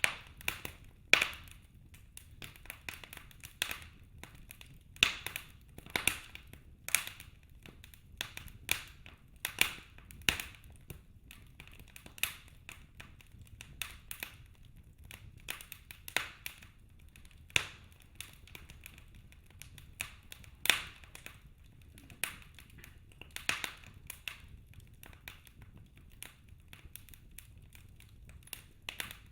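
Wood fire burning in a fireplace, crackling: irregular sharp snaps and pops from the burning logs, some much louder than others, over a faint low rumble.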